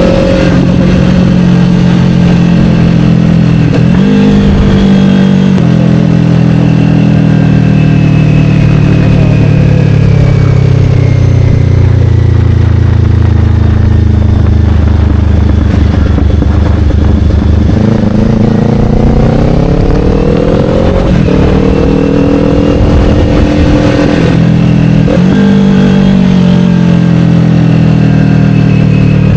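Kawasaki Ninja 500 parallel-twin engine through an Akrapovic slip-on exhaust, under way: the revs drop in steps at gear changes early on, fall slowly and steadily through the middle as the bike slows, then climb again with a couple of quick shifts near the end.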